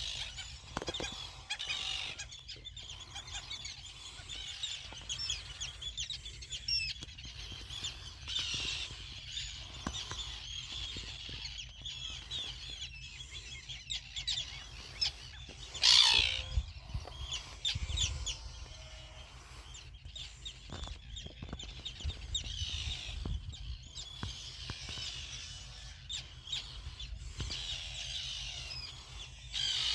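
Terns calling over and over, several birds at once, as they defend their chicks against an intruder; one call comes close and loud about sixteen seconds in.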